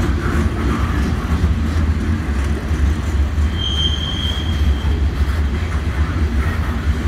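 A freight train of covered hopper cars rolls steadily past with a low rumble of wheels on rail. About three and a half seconds in, a high steel wheel squeal rings out for just over a second.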